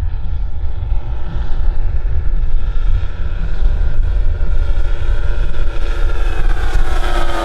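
Engines of a large RC model C-5 Galaxy whining steadily in flight over a heavy low rumble. The whine drops in pitch near the end as the model passes by.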